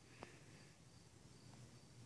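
Near silence outdoors, with faint high insect chirping repeating at even intervals and one soft click about a quarter second in.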